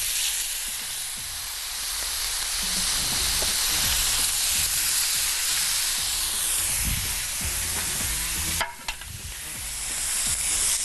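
Fish fillets sizzling steadily as they fry in a little oil in a hot frying pan. Near the end the sizzle dips for a moment with a light knock, then builds back up.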